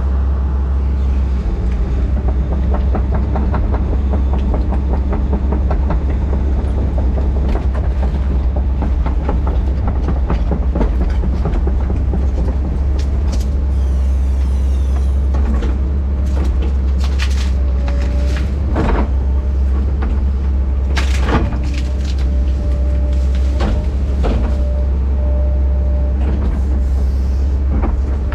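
Heavy tracked diesel machine's engine running steadily under load, with sharp cracks and snaps of wood in the second half as a tree is broken and pushed over.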